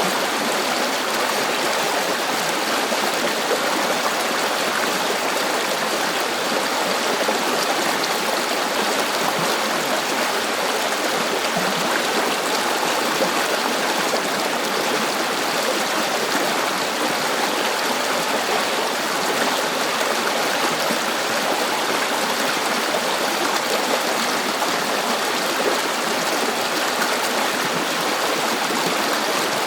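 River water flowing steadily over rocks, a continuous rushing and babbling with no change in level.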